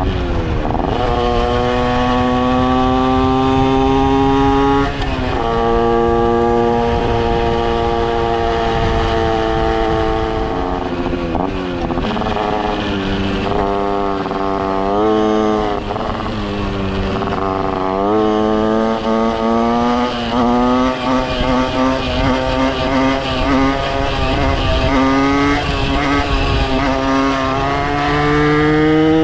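80cc Minarelli AM6 single-cylinder two-stroke moped engine with a custom Kreidler exhaust, ridden under throttle. Its pitch climbs and then drops sharply at gear changes, about a second in and again around five and eleven seconds. In the middle it rises and falls in quick short blips of the throttle, then climbs steadily near the end. Low wind rumble runs underneath.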